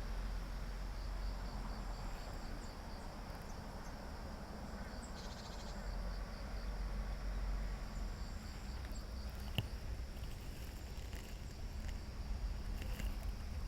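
Insects chirping in a steady, rhythmic train of short high pulses, over a constant low rumble, with a single sharp click about two-thirds of the way through.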